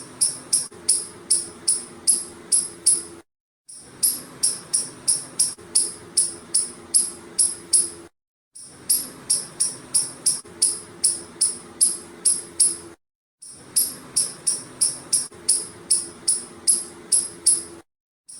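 Squirrel calling in a rapid series of sharp, high-pitched chirps, about three a second, over a faint steady hum. The calls come in bouts of about four seconds, each broken off by a brief dead silence, three times.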